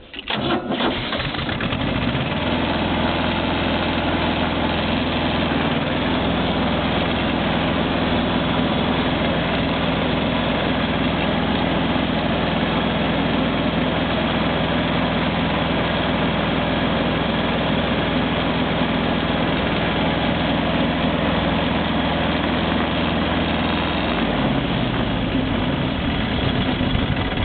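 Tractor engine running steadily during a ride. Its low engine tones sink and fade a few seconds before the end as it slows.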